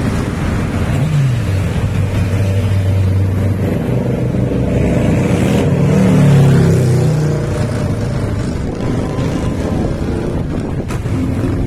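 Motorcycle engines running, with a rise in pitch and loudness about a second in and again, loudest, about six seconds in, then settling back to a steady running.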